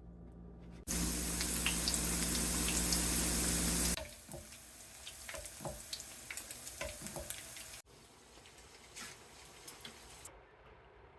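Kitchen tap running hard for about three seconds, then shut off abruptly, followed by softer scattered drips and small clicks.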